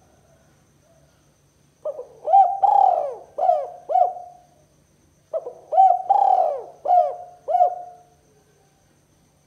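Spotted dove cooing: two phrases of about five coos each, the second starting about a second after the first ends.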